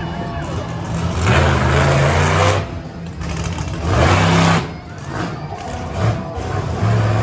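Monster truck engine revving hard in repeated bursts, the pitch rising as the throttle opens, with quieter stretches between.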